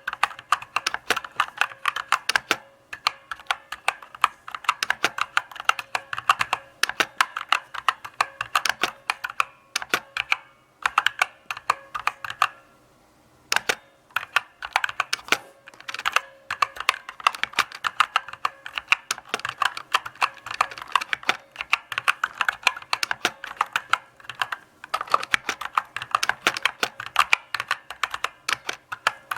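Keys of a mechanical keyboard being typed on steadily, a stream of sharp clicks with a short pause about ten seconds in.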